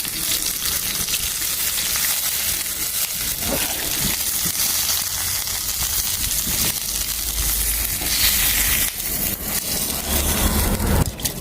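Pot of pork fat, water and freshly added dandelion and plantain greens sizzling steadily on the heat, with a low rumble about seven seconds in.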